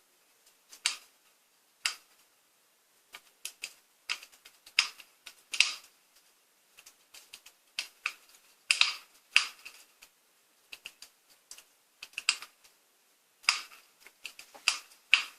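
Firewood crackling in a fireplace, played from a TV fireplace video: irregular sharp pops and snaps, sometimes several in quick succession, with short gaps between.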